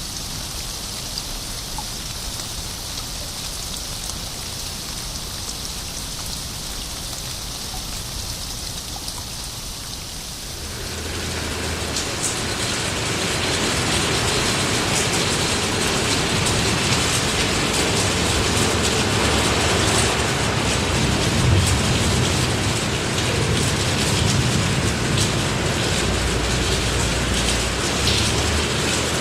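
Steady rain, at first a light high hiss. About ten seconds in it swells into louder, heavier rain with a low rumble underneath and scattered sharp drop ticks.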